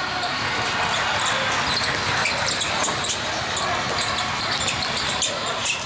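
Basketball game play on a gym court: a ball bouncing on the floor, heard as many short sharp hits over a steady hubbub of players and spectators echoing in the hall.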